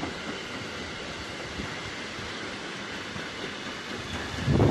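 Freight train of loaded double-deck car-carrier wagons rolling past at steady speed, wheels running on the rails. A louder low rush comes in just at the end.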